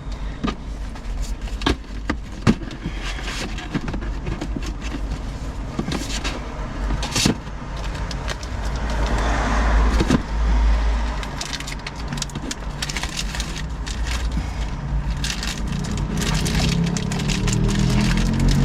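Knocks, clicks and scrapes of binders and papers being packed into a box, over a steady low rumble of traffic. A vehicle passes about nine to ten seconds in, and an engine rises in pitch near the end.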